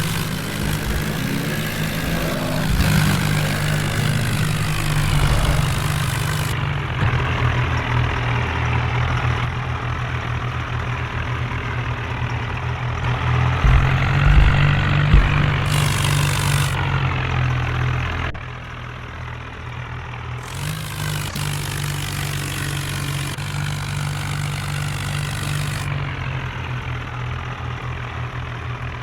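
Tractor engine running steadily, dropping somewhat in level about 18 seconds in.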